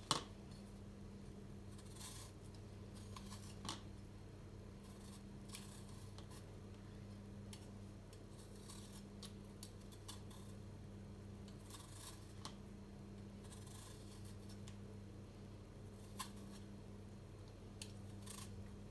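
Faint household handling sounds: scattered light clicks and short scraping or snipping strokes, over a steady low hum.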